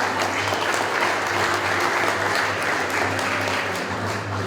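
An audience applauding, many hands clapping in a dense patter that thins out toward the end.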